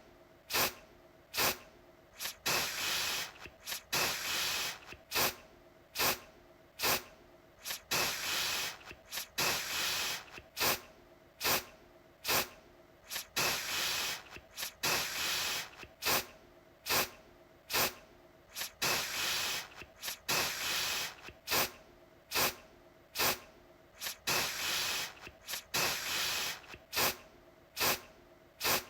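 Aerosol deodorant can spraying in repeated bursts, a mix of short puffs and longer hissing sprays of up to about a second, coming every second or two with brief quiet gaps between.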